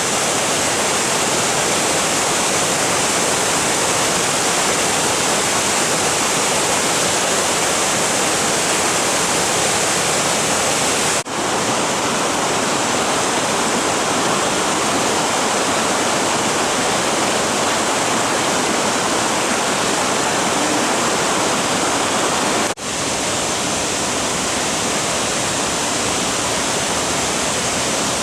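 Steady, loud rush of a large waterfall, Cachoeira dos Pretos, crashing water without pause, dipping briefly twice.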